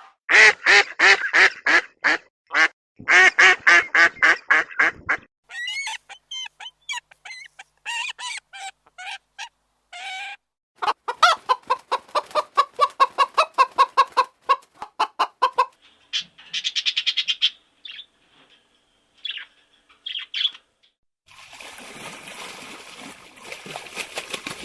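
Domestic fowl calling in several bouts of fast, evenly repeated calls, with pauses between bouts. Near the end a steady noisy hiss takes over.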